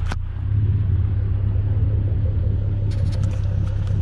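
Car engine idling close by, a steady low rumble that gets louder about half a second in, with a sharp click at the start and a few light clicks near the end.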